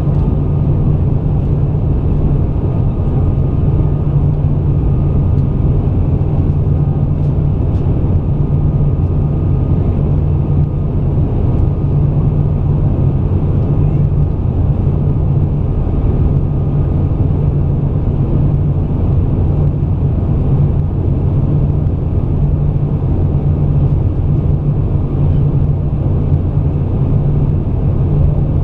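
Steady cabin drone of an Airbus A320 on approach to landing: engine and airflow noise, deep and unchanging, with a faint steady whine above it.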